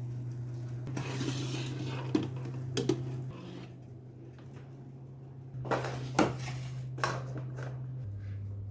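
Dishes and cutlery clinking and knocking as kitchenware is handled, a few separate sharp knocks about two, three, six and seven seconds in, over a steady low hum.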